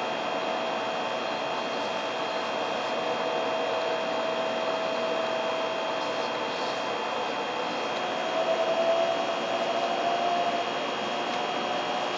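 Interior noise of a 700 series Hikari Rail Star Shinkansen car under way: a steady rushing noise with a humming tone that rises slightly in pitch and gets a little louder about eight seconds in.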